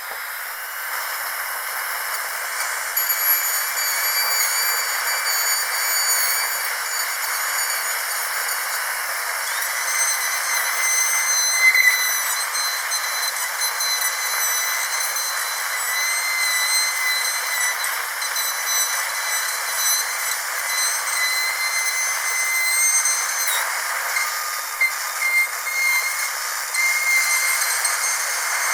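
High-speed dental drill running: a steady high-pitched whine over a hiss of air, its tones wavering slightly in pitch.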